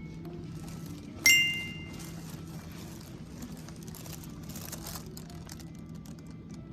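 A single bright bell-like ding about a second in, ringing out over about a second, over a steady low background with faint scattered clicks.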